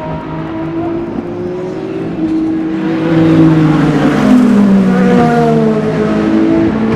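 Race car engines passing at speed, several engine notes overlapping. The sound swells to its loudest about three to four seconds in, and the pitch drops as a car goes by.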